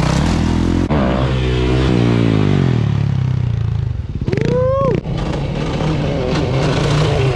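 Dirt bike engines running and revving, the pitch climbing over the first few seconds, with a quick rev that rises and falls near the middle.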